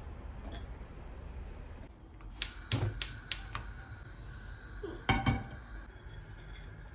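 Dishes and kitchen utensils clinking. There are four quick, sharp clinks that ring on, about two and a half seconds in, then another clatter about five seconds in.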